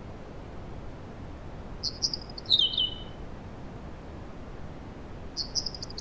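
A small bird singing a short phrase twice: a few quick high notes followed by a falling trill, over a steady low background hiss.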